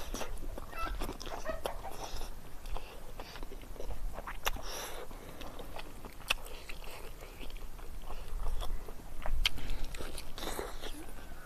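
A person chewing and biting meat off a chicken leg bone, with sharp mouth clicks now and then.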